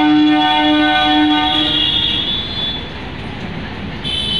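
Electric multiple-unit passenger train's horn sounding one steady note for about two seconds, over the rumble of coaches rolling past. A brief high squeal comes near the end.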